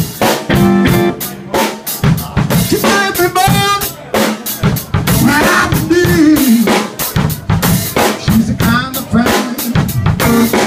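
Live blues band playing an instrumental stretch: a drum kit keeps a steady beat of snare and bass drum hits under bass and a lead instrument bending its notes.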